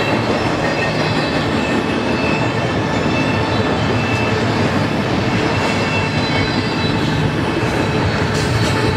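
Double-stack intermodal freight cars rolling past: a steady rumble of steel wheels on rail, with thin, on-and-off high-pitched wheel squeal over it.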